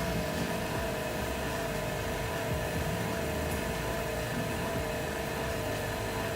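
A phone-screen laminating machine running steadily while it laminates an iPhone X touch panel onto its LCD: an even mechanical hum with several steady tones.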